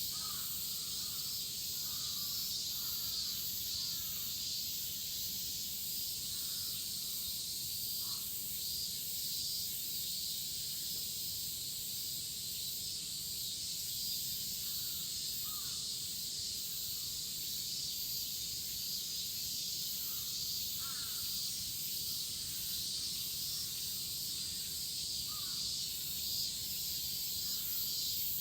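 A chorus of cicadas in midsummer shrilling as a steady high-pitched hiss, with short bird calls scattered through it.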